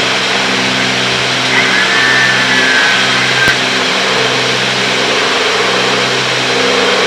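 Cockpit drone of a Cessna 310's twin six-cylinder piston engines and propellers running steadily in cruise, heard through the intercom audio feed. A faint whistle and a sharp click come about three and a half seconds in.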